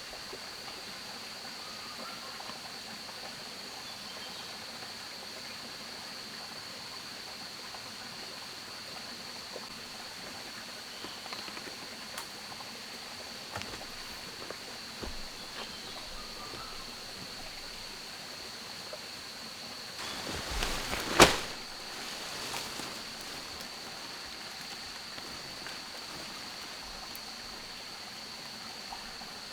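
Steady outdoor ambience: an even hiss like running water under a constant high-pitched drone. About two-thirds of the way through, a second of rustling ends in a single sharp knock, the loudest sound here.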